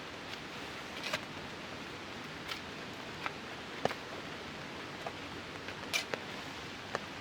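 Steady hiss of rain, with scattered sharp ticks and taps every half second to a second.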